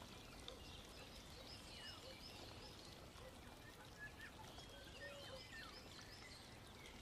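Near silence: faint background hiss with scattered small bird chirps.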